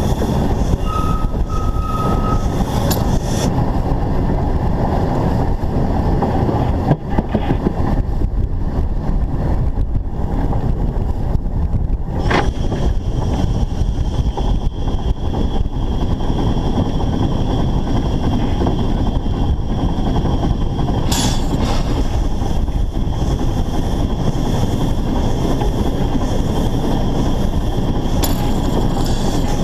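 Narrow-gauge steam locomotive under way, heard from a camera mounted on the engine: a loud, steady running noise with a few sharp clicks.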